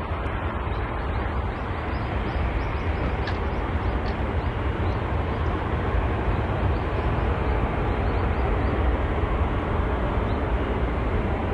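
Jet airliner's engines at takeoff power on the runway, a steady deep rumble with a rushing roar that grows slowly louder.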